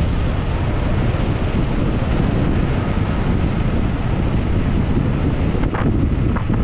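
Wind rushing over an action camera's microphone as a mountain bike is ridden downhill at speed. There are a couple of short knocks near the end.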